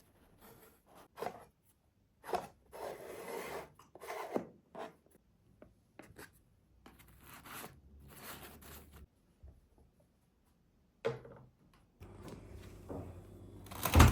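Hands working with household items: a run of short rubbing and scraping sounds with a few sharp clicks, and a loud knock right at the end.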